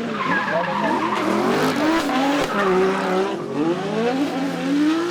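Race car engine at high revs on a hillclimb, its pitch climbing and dropping again and again through gear changes and throttle lifts.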